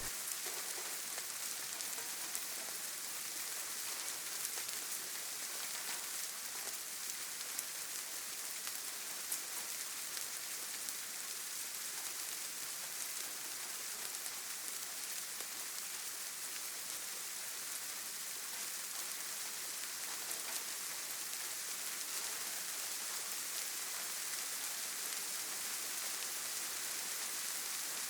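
Steady rain falling on leaves and ground, an even hiss with the odd louder drop.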